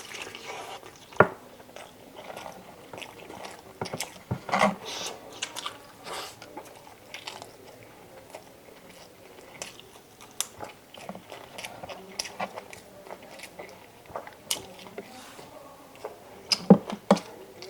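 Close-up eating sounds: a person biting and chewing chicken adobo, with wet mouth smacks and small crunches coming irregularly. There is a sharp click about a second in and a run of louder clicks near the end.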